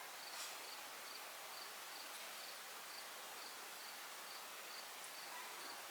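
Faint hiss with a short, high chirp repeating evenly about twice a second, like an insect chirping.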